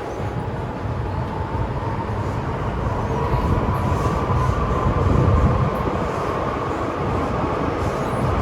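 MTR M-train metro train running, with a steady low rumble of wheels on track and a faint motor whine that rises in pitch over the first few seconds as it picks up speed, then holds steady.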